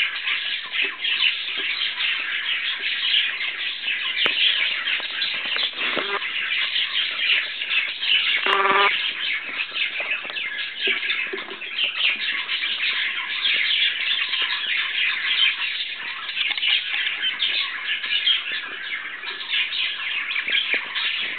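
Budgerigars chattering and chirping continuously, with a louder harsh squawk about eight and a half seconds in.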